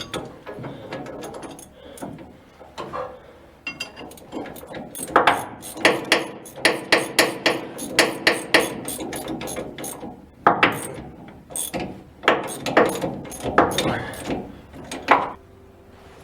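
Ratchet wrench clicking through repeated short strokes while tightening the bolts of a propeller shaft coupling, drawing the coupling halves together. The clicks come in several runs, about two or three a second, with short pauses between them.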